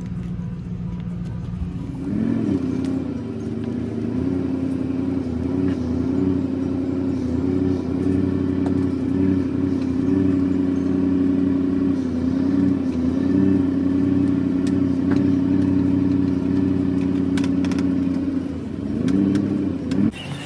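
The tow vehicle's engine runs steadily under load while pulling a race car on a dolly at freeway speed, with little power to spare. Its pitch steps up about two seconds in and holds, then dips and climbs again near the end.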